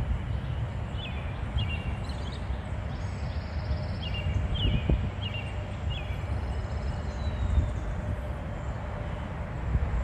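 A bird chirping repeatedly: short, high calls, each dipping then levelling off, in a loose series over the first six seconds, over a steady low outdoor rumble.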